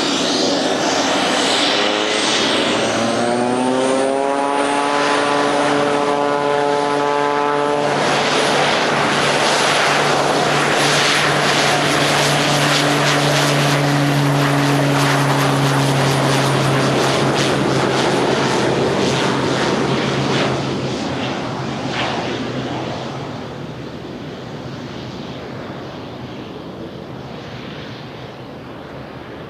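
Pilatus PC-12 NGX single turboprop on its takeoff run: a high turbine whine with propeller tones rising in pitch as power comes up over the first several seconds, then a loud steady run. It fades away after about twenty seconds as the plane climbs out and departs.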